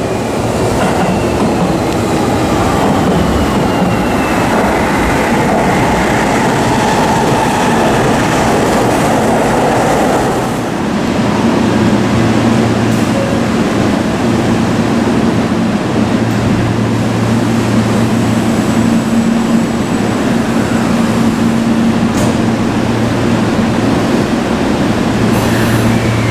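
Train noise in a station: for about the first ten seconds a broad rumble of a train running, with faint falling squeals. After that, a Seibu 6000 series electric train standing at the platform gives a steady low hum from its underfloor equipment.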